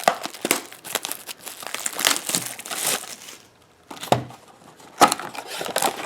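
Foil trading-card booster pack wrappers crinkling and tearing as they are opened by hand, with a short lull about three and a half seconds in.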